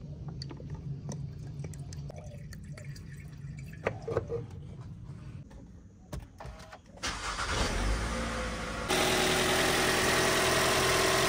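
A few light clicks and knocks, then the Toyota Camry's engine is push-button started about seven seconds in, cranks briefly, catches and settles into a steady idle. It is being run to circulate an engine flush just added to the oil.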